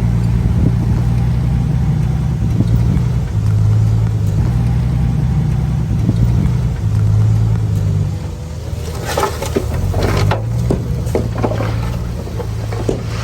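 Bulldozer's diesel engine running steadily under load, easing off about eight seconds in, followed by a series of clanks and rattles.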